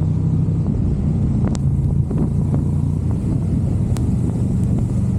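Motorcycle engine running steadily at low revs, its note shifting slightly a few times, with a few sharp clicks.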